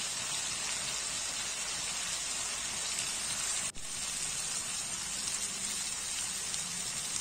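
Potatoes, cauliflower and peas frying in spiced oil in a pan, a steady sizzle with a momentary break about halfway through. This is the bhuna stage, the vegetables being fried with the masala over medium-high heat.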